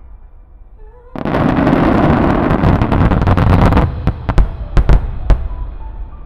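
Finale barrage of aerial firework shells bursting: about a second in, a dense continuous crackling rumble starts and lasts nearly three seconds, followed by several separate heavy booms and a fading rumble.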